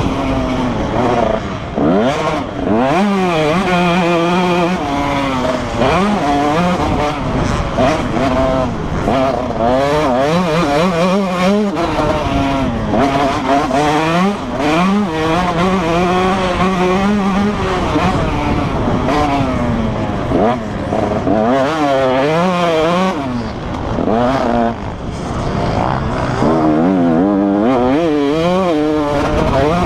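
Motocross bike engine revving hard as it is ridden, its pitch climbing and dropping over and over with the throttle and gear changes, with a few steadier stretches of held revs.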